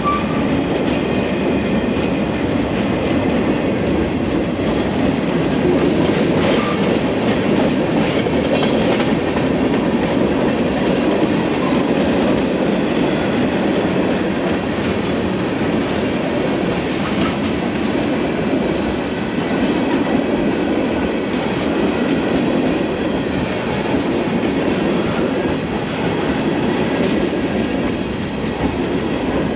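Freight train cars rolling steadily past, the continuous noise of steel wheels on rails.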